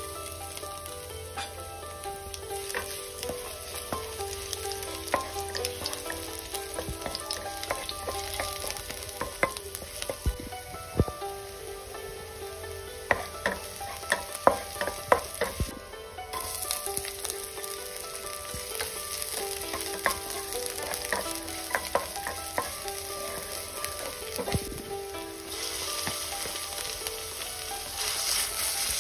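Garlic and shallots sizzling in hot oil in a non-stick frying pan, stirred with a wooden spatula that knocks and scrapes against the pan, with the sharpest knocks around the middle. The sizzle grows louder near the end as minced pork goes into the pan.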